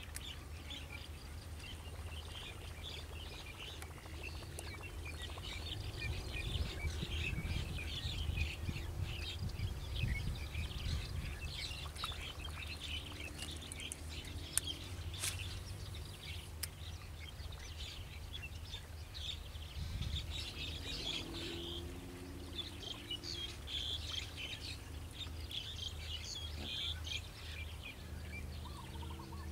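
Small birds chirping and calling continuously in the background of an open wetland. A low rumble rises for several seconds about a fifth of the way in, and a few short sharp clicks sound around the middle.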